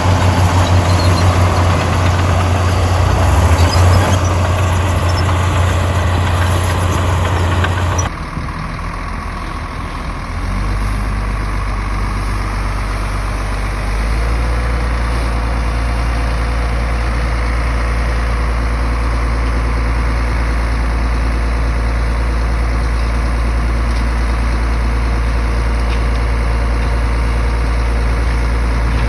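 Heavy diesel earthmoving machinery running steadily with a deep low engine drone. The sound changes abruptly about eight seconds in, and the engine settles into a steadier, somewhat louder drone a few seconds later.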